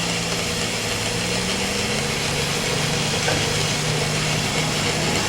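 Metal lathe taking a cut on scrap metal: a steady hiss from the cutting tool over the low hum of the lathe's motor, the hiss being the sound of a clean, well-going cut.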